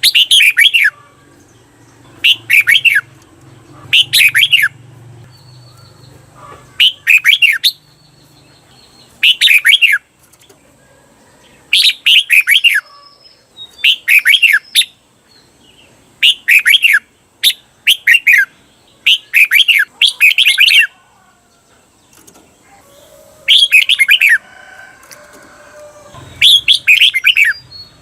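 Red-whiskered bulbul singing its short, bright song phrases about a dozen times, every second or two, some given twice in quick succession: the doubled 'เบิ้ล' song used to teach caged bulbuls.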